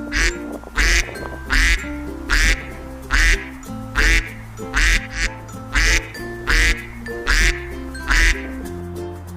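Duck quacking in a steady series of short calls, about one every 0.8 seconds, over background music.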